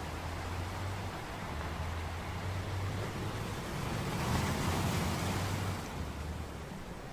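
Wind blowing across the microphone, a rushing noise with a low rumble that swells about two thirds of the way through and then eases.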